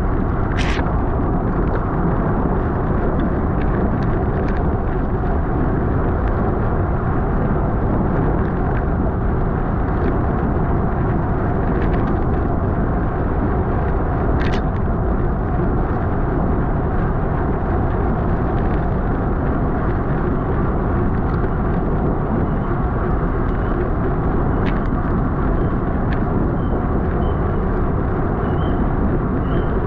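Steady rush of wind across a bike-mounted camera's microphone at race speed, with a few sharp clicks.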